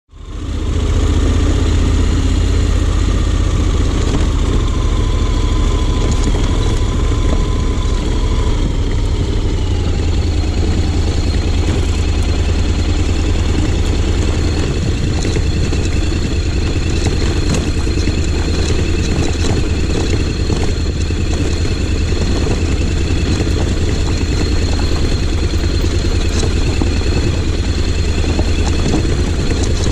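Honda X-ADV 750's parallel-twin engine running steadily at a low, even pace.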